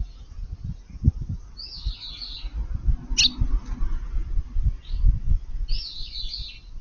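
Eurasian tree sparrows chirping: two short bursts of chattering chirps and one sharp single chirp between them. Low, muffled thumps and rumble run underneath.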